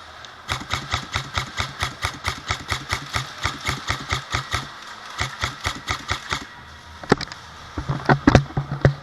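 Airsoft gun firing a long string of rapid shots, about five or six a second, with a brief break partway through, followed near the end by a few scattered, louder cracks and knocks.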